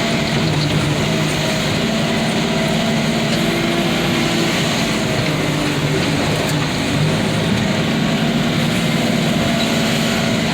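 Vehicle engine running steadily while the rig is driven slowly forward, a constant hum with no change in speed.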